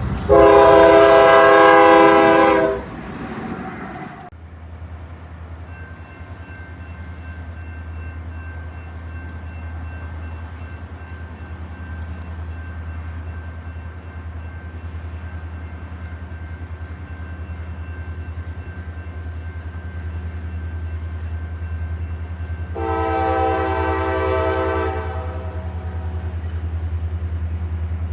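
Locomotive air horn sounding a chord in a loud blast of about two and a half seconds, then a second blast of about two seconds some twenty seconds later. Between the blasts a steady low rumble runs on.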